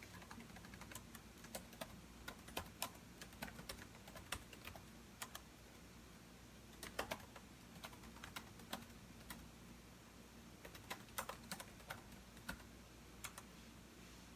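Computer keyboard typing: irregular runs of key clicks with short pauses between bursts, over a faint steady low hum. The typing stops near the end.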